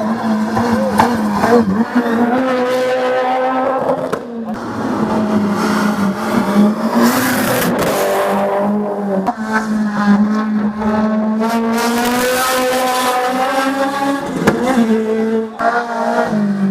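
Competition car's engine at high revs on a hill climb, its note rising repeatedly and breaking off briefly at gear changes, one about four seconds in.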